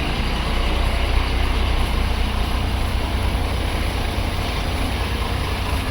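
Steady low rumble of a vehicle engine running, with an even haze of road and traffic noise over it.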